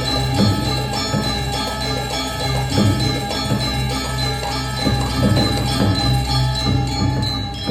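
Balinese gamelan music: kendang drum strokes played over the steady ringing of bronze metallophones and gongs.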